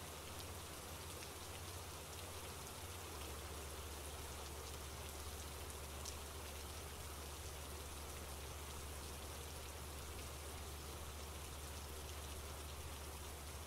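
Soft, steady rain: an even hiss with scattered faint drop ticks.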